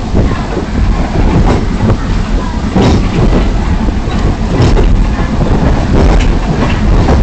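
Railroad train rolling along the track: a loud, steady rumble with sharp wheel clicks coming at uneven intervals.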